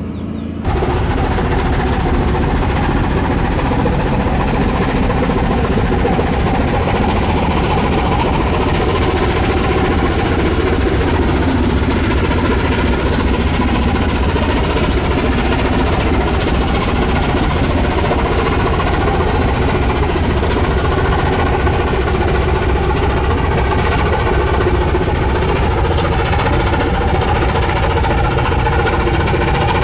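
A gut ship's diesel engine running steadily at a fast even beat, starting abruptly about half a second in.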